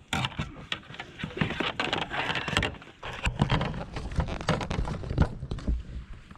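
A quick, irregular run of knocks, taps and scuffs against the kayak as a just-caught black bass is handled and flops aboard.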